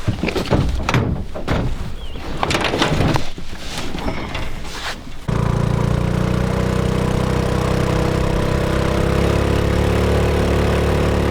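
For about five seconds, irregular hissing and clattering noises; then an abrupt change to a longtail boat motor running steadily at an even speed.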